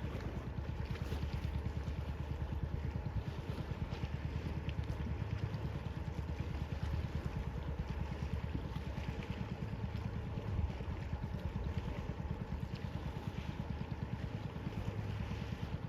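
A steady, low engine rumble made of fast, even pulses, with a hiss of water or wind above it.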